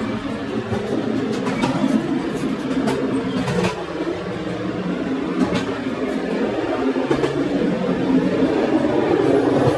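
Passenger train running along the track: a steady rolling rumble of wheels on rail, with scattered short clicks.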